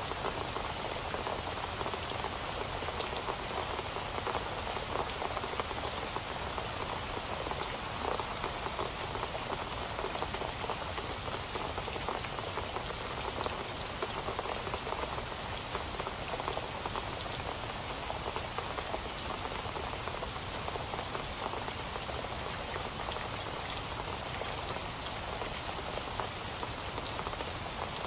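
Steady rain falling on a hard surface: a dense, even patter of many drops that keeps on without a break.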